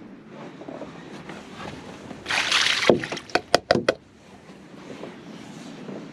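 Water being dumped out of a rabbit's water bowl in a short splash, followed by about five quick sharp knocks of the bowl being rapped to empty it.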